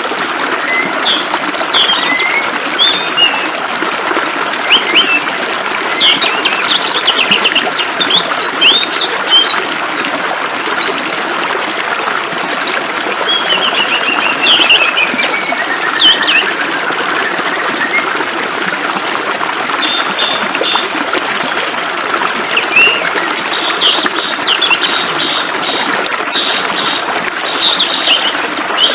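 Songbirds chirping and singing over a steady hiss of flowing water, the calls bunching into busy flurries and including a falling trill.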